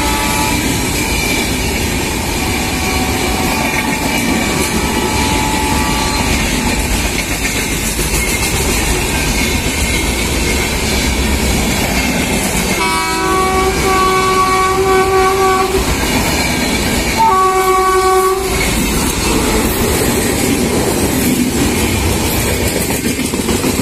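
Continuous rumble of passing train wheels on the rails. Near the middle, an approaching WAP-7 electric locomotive sounds its horn twice: one long blast of about three seconds, then a shorter one of about a second, which is the loudest moment.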